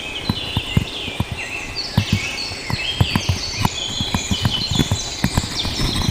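Birds singing, with many short falling chirps overlapping, over irregular low knocks or thuds several times a second.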